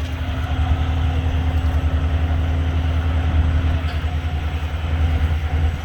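A truck engine idling with a steady low rumble and hum.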